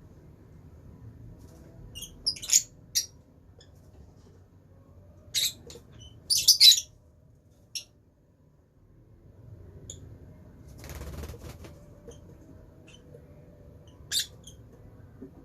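Lovebirds giving sharp, high-pitched chirps in short clusters, the loudest a quick run of calls about six to seven seconds in. A brief rustling burst comes about eleven seconds in.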